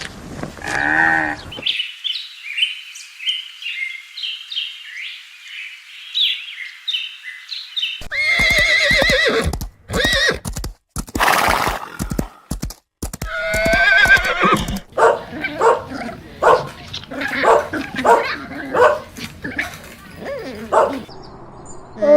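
A string of different animal calls, including horse whinnies with a quavering pitch about a third of the way in and again midway, among short high chirping calls and other brief cries.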